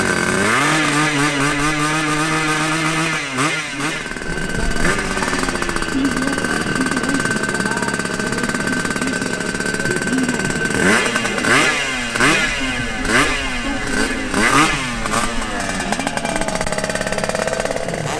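Two drag-racing motorcycle engines, a two-stroke Yamaha RX 115 and a four-stroke AKT NKD, revving. The note climbs and holds in the first few seconds. Later it sweeps up in pitch again and again, several times in quick succession.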